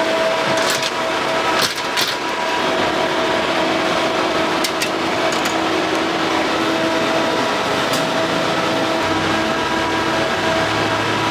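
A steady machine hum over a constant noisy background, with a few sharp clicks scattered through the first half.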